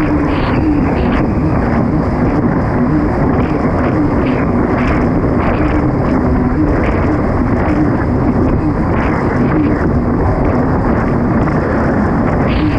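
Kawasaki STX 160 personal watercraft's four-stroke engine running hard at racing speed, its note rising and falling, over a steady rush of wind and water.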